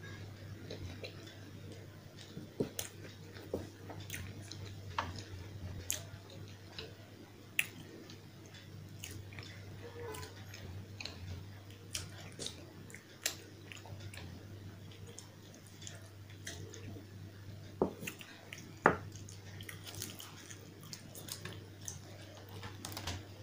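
Close-miked chewing of puri with potato curry, with wet mouth sounds and scattered sharp clicks at irregular moments. The two loudest come a little before 18 and 19 seconds in. A steady low hum lies underneath.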